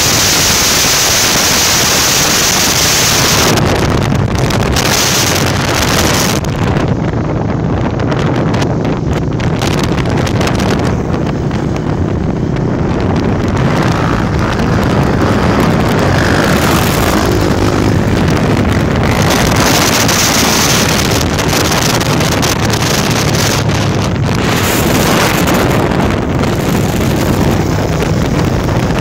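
Heavy wind rushing over the microphone of a moving motorcycle. Underneath it runs the steady hum of the Honda Tornado's single-cylinder engine at cruising speed.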